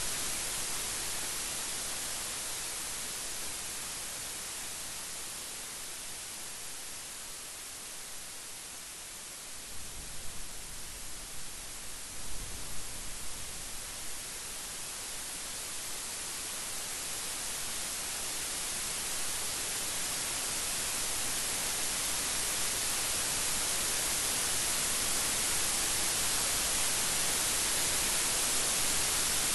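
Steady heavy rain: an even hiss that eases slightly, then swells louder toward the end. A brief low rumble of thunder comes about ten to thirteen seconds in.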